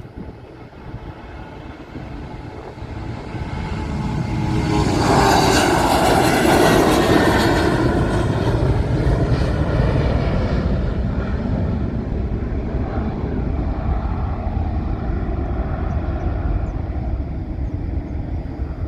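Jet airliner's engines, the roar building to a loud peak about five seconds in, then going on as a lower steady rumble.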